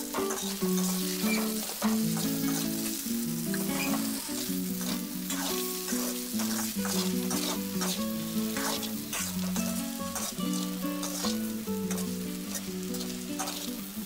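Onions and soya chunks sizzling in hot oil in a pan while being stirred with a spatula, with a steady crackle and frequent scrapes and clicks of the spatula against the pan.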